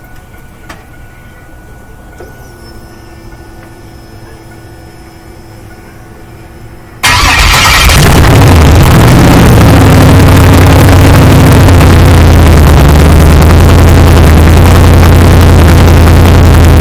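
Cold start of a swapped-in GM LS1 V8. After a few quiet seconds with a couple of clicks and a faint steady hum, the engine catches abruptly about seven seconds in, revs briefly, then settles into a loud, steady idle.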